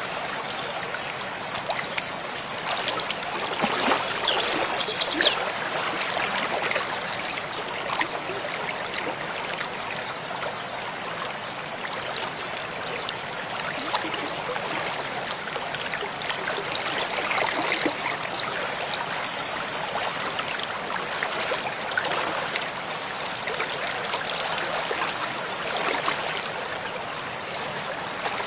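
Mountain stream flowing steadily over rocks, an even rushing and trickling of water. About five seconds in, a bird gives a short, high-pitched call over it.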